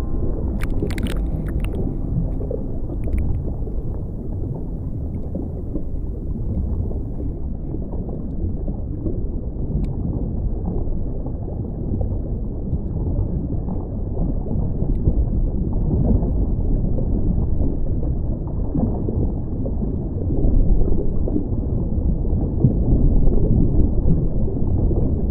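Muffled, steady rush and gurgle of water with a heavy low rumble, with a few sharp clicks about a second in.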